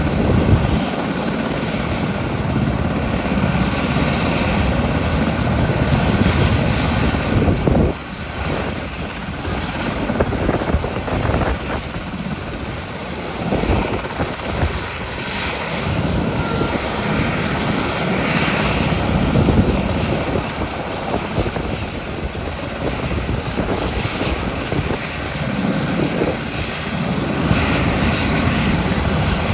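JMSDF SH-60K helicopter's twin turboshaft engines and rotors running, a loud continuous noise that swells and dips slightly.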